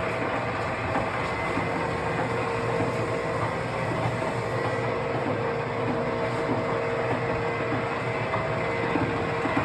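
DJC 25-inch gap bed lathe running under power with its lead screw engaged: a steady mechanical whir of the drive and gearing, with a few steady tones held throughout.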